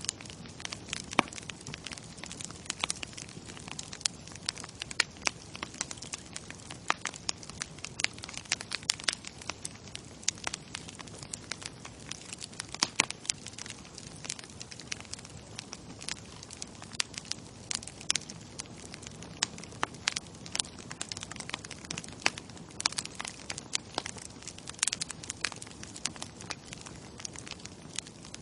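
Wood bonfire crackling: irregular sharp pops and snaps of burning wood over a steady hiss of flame.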